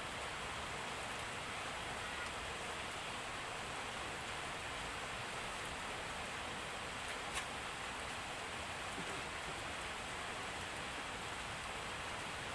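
Steady rain falling: an even hiss with scattered drop ticks and one sharper click a little past the middle.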